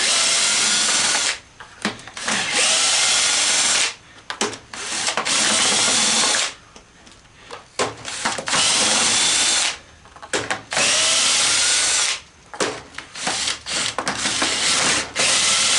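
Power drill with a long driver bit backing screws out of a plastic housing, running in a string of about seven bursts of one to two seconds each, with short pauses between them.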